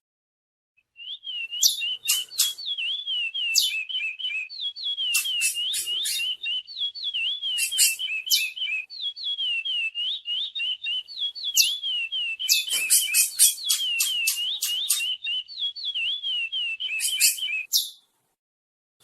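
Chestnut-bellied seed finch (curió) singing a long, unbroken song of rapid whistled notes that slur up and down, with bursts of sharp, high chips several times. The song starts about a second in and stops about a second before the end.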